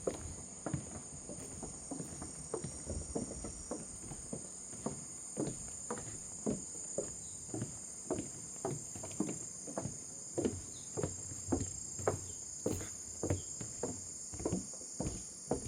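Footsteps walking steadily along a forest path, a little under two steps a second, under a steady high buzz of insects.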